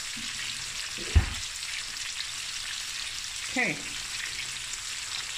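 Whole prawns sizzling and crackling steadily in oil and butter in a stainless steel frying pan, moved about with a silicone spatula. A single low thump about a second in, and a short sound falling in pitch near the middle.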